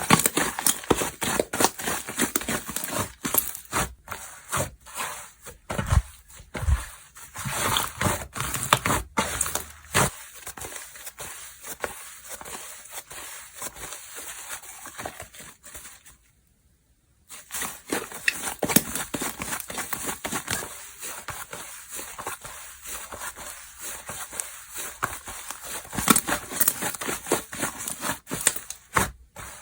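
Slime being squished, stretched and pressed by hand, giving dense crackling, sticky popping and clicking. The sound stops for about a second partway through, then resumes.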